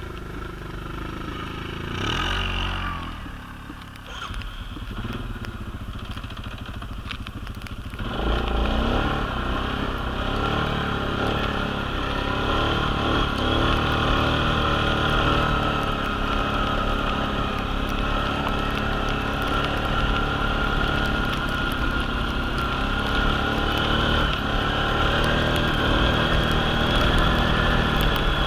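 All-terrain vehicle (quad) engine running as it is ridden. It gets clearly louder about eight seconds in and holds a steady drone after that.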